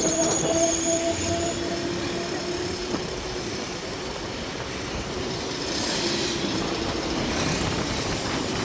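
Road traffic and vehicle running noise heard on the move through town streets. A steady pitched whine carries through the first three seconds, then fades into the general traffic noise.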